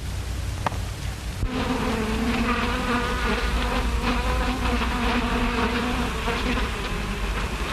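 Bees buzzing, a wavering drone that starts about a second and a half in, over the low hum and hiss of an early sound-film track.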